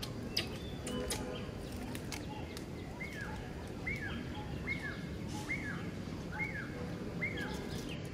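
A bird repeating a short call six times at even spacing, just under a second apart, each note rising then dropping in pitch, over steady outdoor background noise. A sharp click about half a second in.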